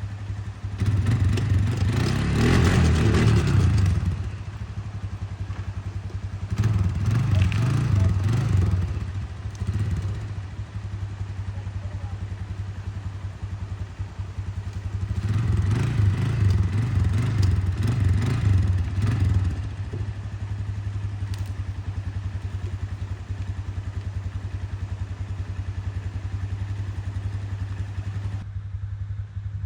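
Four-wheeler (ATV) engine running steadily while riding, with three stretches where it is throttled up and louder, near the start, around seven seconds in and around sixteen seconds in.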